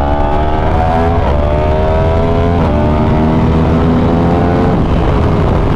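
Yamaha YZF-R1's 998 cc crossplane inline-four accelerating hard through the gears. Its revs climb in each gear, with quick upshifts about a second in, midway and near the end.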